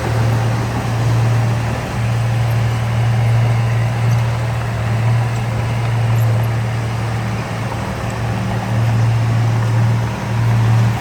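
Heavy diesel engine of earthmoving machinery running steadily, a deep low hum that swells and eases a little.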